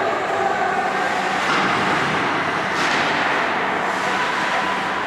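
Ice hockey game in play: a steady rush of skates carving on the ice, with a few sharper scraping swishes such as skaters stopping, and the hubbub of the rink behind.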